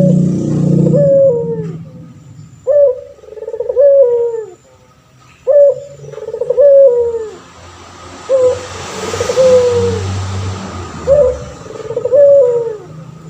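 Male puter pelung (ringneck/Barbary dove) cooing over and over, each coo two notes that jump up and then slide down, coming in pairs about every second and a half. A low steady hum runs underneath.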